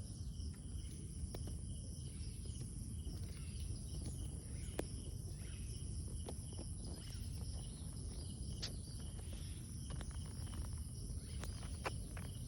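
Outdoor ambience with a steady high-pitched insect drone such as crickets, over a low rumble, with a few scattered sharp clicks.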